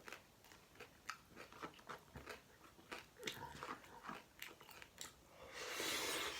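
Close-miked chewing and wet mouth sounds of someone eating a soft tortilla taco filled with mashed potato and chickpea curry, with scattered small smacks. Near the end comes a steady breathy hiss lasting about a second.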